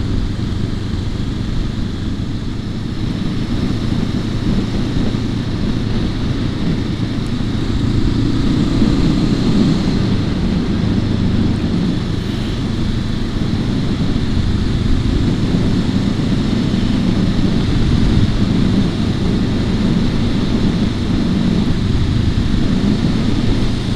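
Honda CL500 motorcycle's 471 cc parallel-twin engine running steadily as the bike is ridden along at a cruise, under an even haze of road and wind noise. It gets a little louder about eight seconds in.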